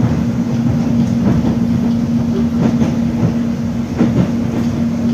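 Cabin noise of a moving electric airport rail link train: a steady low rumble with a constant hum, heard from inside the carriage. Light clicks of the wheels over rail joints come about once a second.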